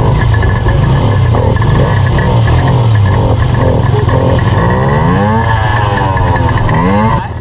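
Small single-cylinder four-stroke dirt bike engine being ridden, its pitch rising and falling several times as it revs up and eases off. The sound drops off suddenly near the end.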